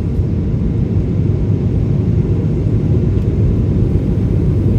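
Steady low cabin rumble of a Boeing 777-300 in flight: its Rolls-Royce engines and the airflow over the fuselage heard from inside the passenger cabin.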